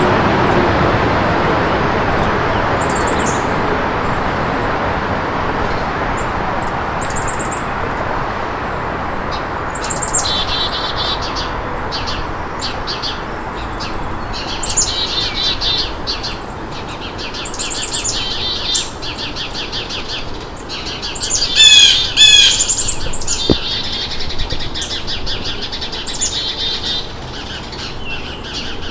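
Songbirds chirping and trilling, with short high chirps at first and rapid trills joining about a third of the way in; a louder, harsh call stands out about two-thirds through. A broad hum like distant traffic fades out over the first several seconds.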